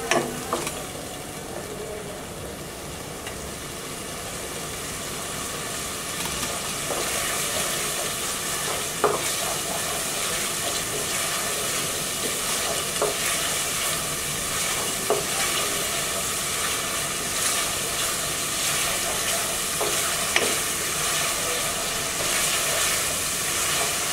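Ginger, garlic and onion paste frying in oil in a steel pan while a wooden spatula stirs it: a steady sizzle that grows a little louder over the first several seconds, with a few light knocks of the spatula against the pan. The paste is being sautéed down after a splash of water, cooking off its raw taste.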